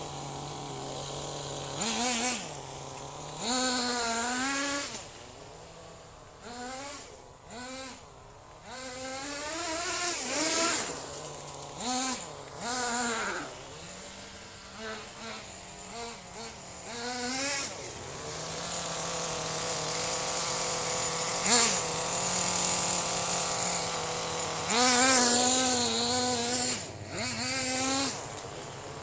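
Small RC buggy engine, lubricated with castor oil in its fuel, idling with a steady buzz and being revved in repeated short throttle blips that rise and fall in pitch, with a longer high-rev stretch near the end.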